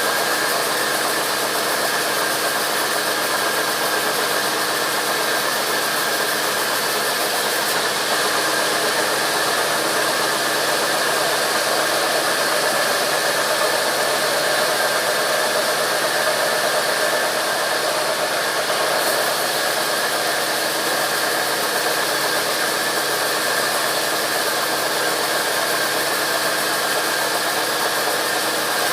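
Sawmill machinery running steadily: an engine-driven saw giving a constant high whine over a broad mechanical din, with no break or sudden impact.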